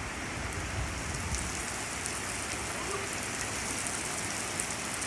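Heavy rain falling steadily, with many drops ticking sharply close to the phone.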